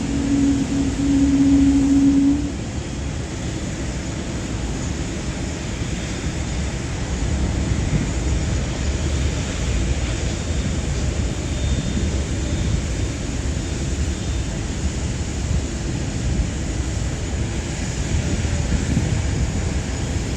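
Steady rushing rumble of jet aircraft engines. A steady low hum is the loudest part for about the first two and a half seconds, then cuts off.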